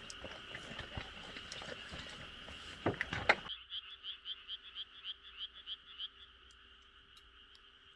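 Frogs calling from rice paddies at night: a steady chorus throughout. About three and a half seconds in, one frog gives a rapid pulsed croak, about five pulses a second, for some two and a half seconds. Before that, small crackles from the wood fire and a few loud knocks near three seconds, which stop abruptly.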